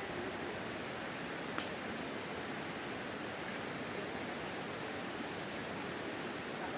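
Wood campfire burning in a fire stand: a steady rushing hiss, with one sharp pop about one and a half seconds in.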